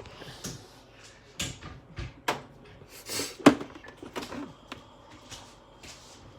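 Light knocks and clatters of things being handled in a kitchen, with a sharp knock, the loudest, about three and a half seconds in, just after a short rustle.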